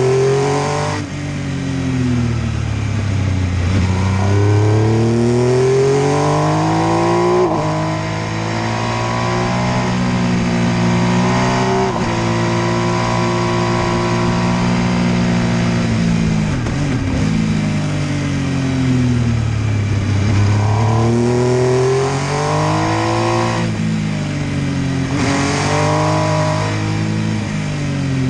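MV Agusta F3 800's three-cylinder engine being ridden hard. Its pitch climbs under acceleration and drops sharply at each gear change. Partway through it holds a steady high note for a few seconds, then falls away as the throttle closes, and it pulls up through the gears again near the end.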